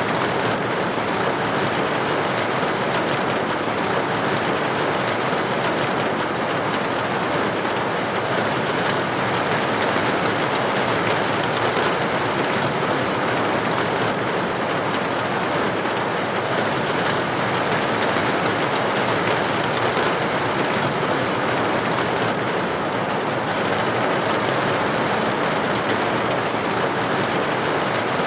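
Steady rain falling on a window pane: an even hiss of drops with no breaks or single loud hits.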